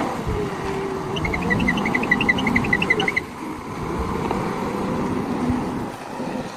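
Diesel engine of heavy machinery running. About a second in, a rapid series of short high chirps sounds for about two seconds.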